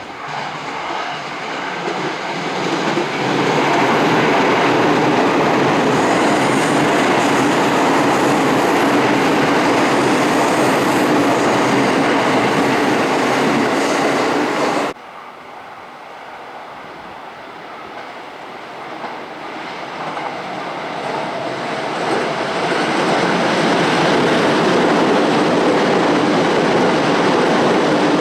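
Commuter train running on the rails, a steady rumble that builds up over the first few seconds. About halfway in it drops off abruptly, then builds back up again.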